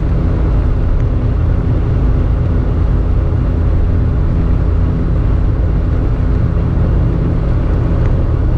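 BMW E30 318is's four-cylinder engine running at steady revs, with road rumble, heard from inside the cabin while cruising.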